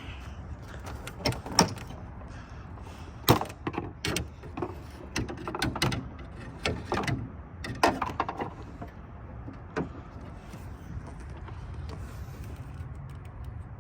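Scattered clicks and knocks of parts being handled in a truck's engine bay, over a steady low rumble; the clicks stop after about ten seconds.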